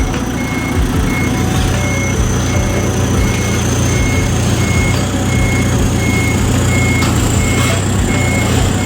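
Tow truck's reversing beeper sounding a steady series of high beeps, about one and a half a second, over its idling diesel engine as the truck backs up.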